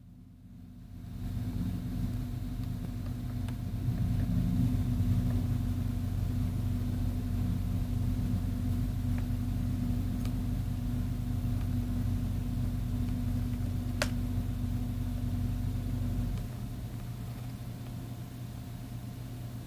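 A motor running with a steady low hum. It starts up about a second in, gets louder around four seconds, and drops to a lower level near the end.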